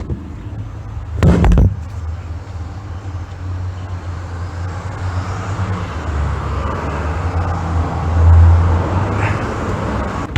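BMW E46 318i four-cylinder engine idling steadily with the air-conditioning compressor engaged, its magnet clutch shimmed so that it stays locked in. About a second in there is a brief loud clunk, and near the end the engine note swells for a moment.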